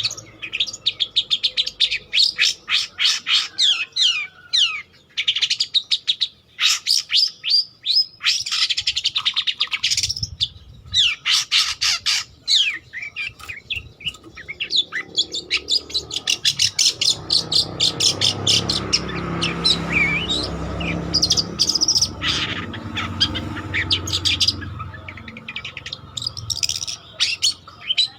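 Long-tailed shrike (cendet) singing in long runs of rapid, high, scratchy chattering notes, broken by short pauses.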